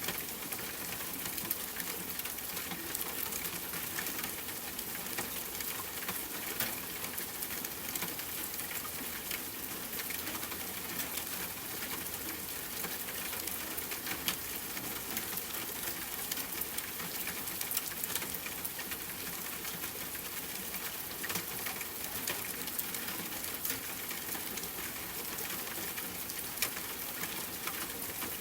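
Steady rain hissing, mixed with a wood fire crackling in scattered sharp pops.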